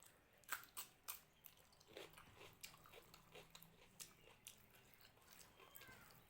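Close-up mouth sounds of eating rice and mutton curry: wet smacking and chewing with short sharp clicks, loudest in the first second or so.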